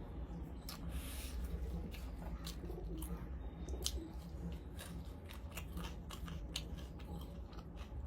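A person chewing and biting crunchy food close to the microphone: irregular crisp crunches and clicks over a steady low hum.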